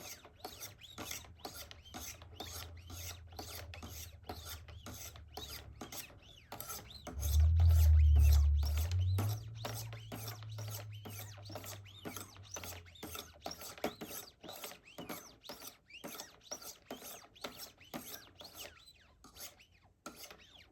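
Wicked Edge Go sharpener's 800-grit stones stroked along a knife blade of CPM Cru-Wear steel, a steady run of quick rasping strokes about two to three a second while the scratches are honed off the edge. A low hum comes up over the middle of it, loudest about eight seconds in.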